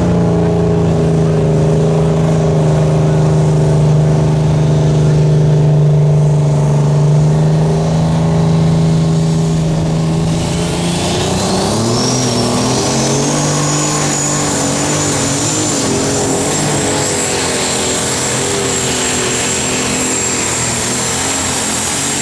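Unlimited super stock pulling tractor's turbocharged diesel engine running hard and steady under load. About halfway through the engine note drops and wavers, while a high whine climbs and then holds steady.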